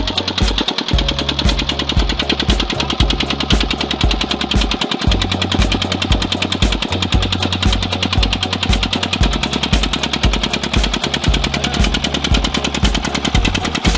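A diesel engine running with a fast, even knocking beat, mixed with music that has a heavy, stepping bass line.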